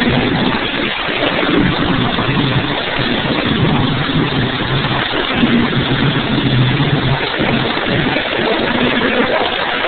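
Monster truck engine running loud, its note rising and falling over a steady wash of noise.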